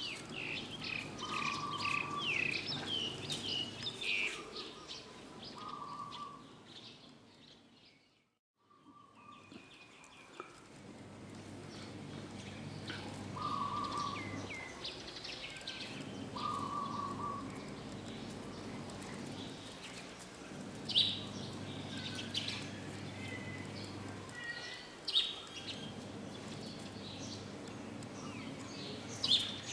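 Birds chirping and calling, with a short flat whistled note repeated every couple of seconds over a steady low background hum. The sound briefly drops out about eight seconds in.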